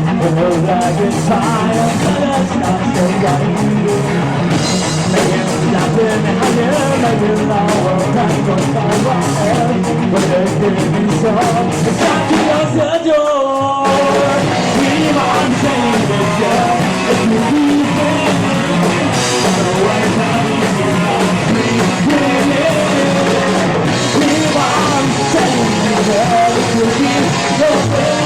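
Live rock band playing loud with sung vocals, guitars and drums. About halfway through, the band drops out for roughly a second, then comes back in.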